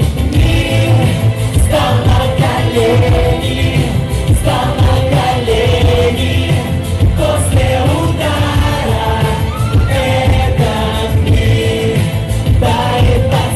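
A pop song: a singer's voice carrying the melody over a band with heavy bass and drums.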